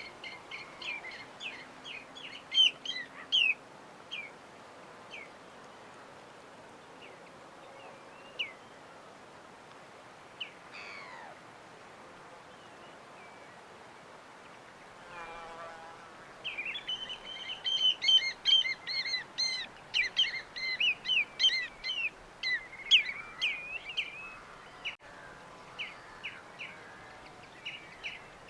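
Small birds chirping in quick, high notes: scattered calls at first, then a dense bout of rapid chirping about two-thirds of the way through, over a faint steady background hiss.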